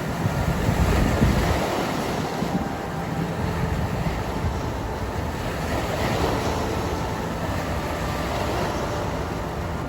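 East River water washing against the island's edge, with wind buffeting the microphone in low gusts, strongest about a second in, over a faint steady hum of the city.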